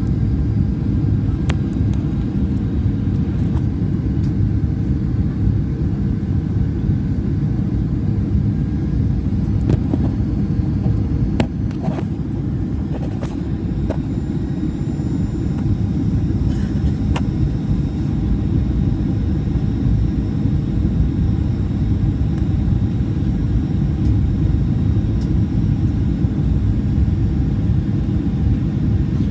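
Cabin noise inside a Boeing 737-400: a steady low rumble from its CFM56-3 engines and the airflow, with a few faint clicks.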